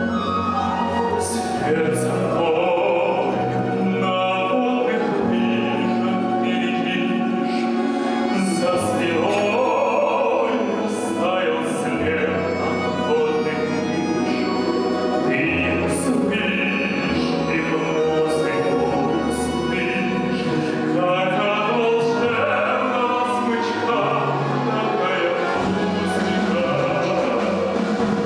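An orchestra playing while a singer holds long, wavering sung notes over the accompaniment.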